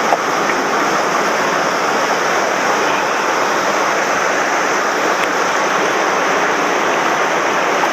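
Swollen mountain stream rushing in high, fast flow after heavy rain: a loud, steady roar of water.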